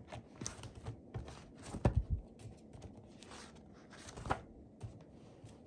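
Scattered handling noises: soft knocks and rustles, the loudest a dull thump about two seconds in and another knock near the end.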